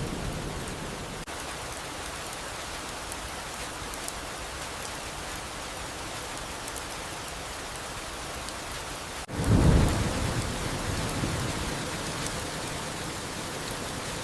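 Steady rain with a thunder rumble. The end of one rumble fades out at the start, and a fresh deep rumble breaks in about nine seconds in, then slowly dies away.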